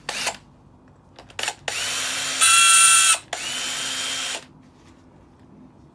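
Power drill-driver backing out the hex screws that hold a decking light's stainless steel top plate: two clicks, then two runs of the motor whining up to speed, the first about a second and a half with a louder, higher whine near its end, the second about a second.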